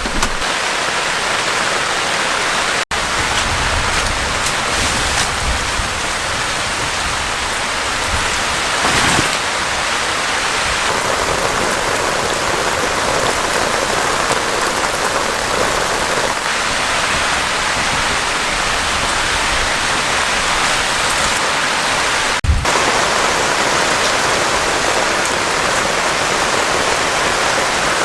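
Heavy rain falling steadily in a dense, even hiss. The sound cuts out for an instant twice, the second time followed by a short low thump.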